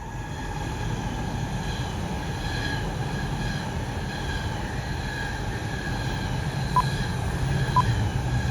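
Tohoku Shinkansen Yamabiko bullet train running through on the line: a steady rumble with a faint even whine over it, and a couple of short clicks about a second apart near the end.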